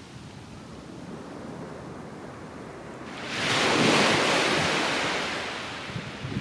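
Ocean surf: a wave breaks and washes up the beach about three seconds in, a loud hiss that swells and then fades over a couple of seconds, over a quieter steady wash of sea and wind.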